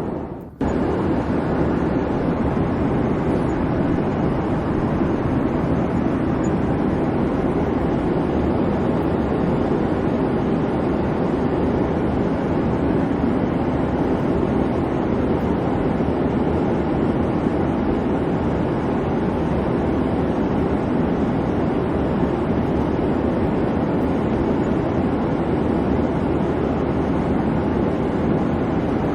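Steady airplane cabin noise: an even hum of the engines and the air rushing past, strongest in the low range. It dips out briefly about half a second in.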